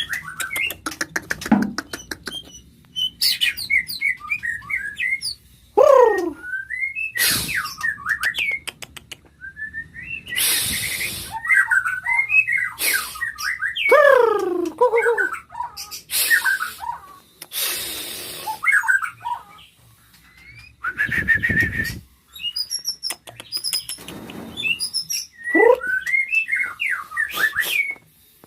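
White-rumped shama singing a long, varied song: clear whistled phrases with quick rising and falling glides and several strong downward sweeps. The phrases are mixed with short harsh rasping notes and a quick run of clicks near the start.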